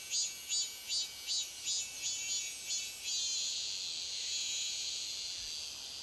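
Cicadas singing in a high-pitched pulsing phrase, about two and a half pulses a second, that runs into a continuous buzz about halfway through and fades near the end, over a steady very high insect drone.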